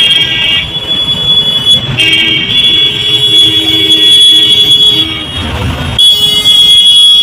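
Highway traffic: vehicle horns sound in long, steady blasts over the rumble of passing engines and tyres. The blasts stop briefly about half a second in and again near five and a half seconds.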